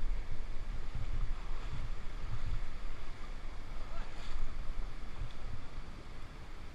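Steady rushing of a waterfall, with irregular gusts of wind buffeting the microphone.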